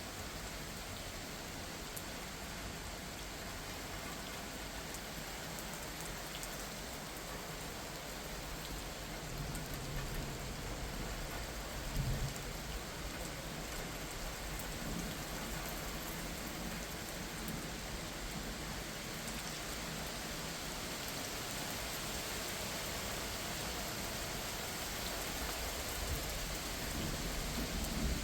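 Steady rain falling, with low rumbles of thunder partway through, one short louder rumble about twelve seconds in.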